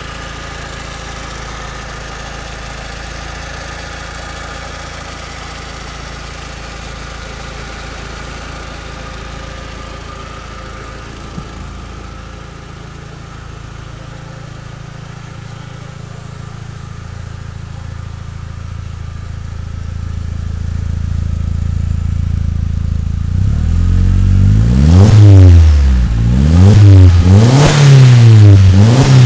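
SEAT Ibiza FR's 20-valve turbo engine through a custom exhaust with a 70 mm downpipe and 63.5 mm cat-back, idling steadily. Near the end it is revved hard several times in quick succession, each rev rising and dropping back.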